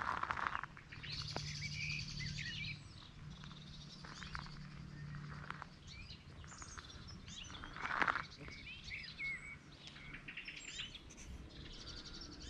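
Small birds chirping and singing in short, repeated phrases, scattered throughout. A faint steady low hum sits beneath them for the first half.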